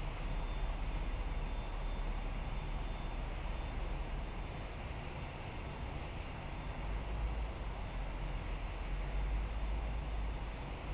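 Jet airliner engines heard across an airfield: a steady rushing noise with a heavy low rumble.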